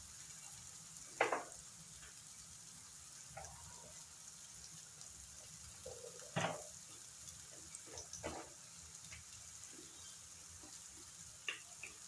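Onion, green chillies and spices frying in butter in a nonstick pan: a soft, steady sizzle with a few short louder crackles, about a second in and again around six and eight seconds.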